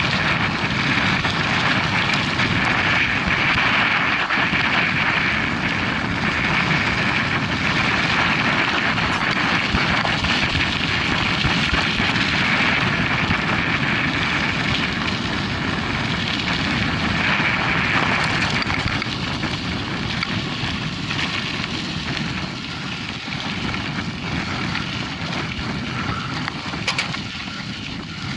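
Steady rushing noise of a mountain bike on the move: wind on the microphone and tyres rolling over the track. It eases somewhat in the last third.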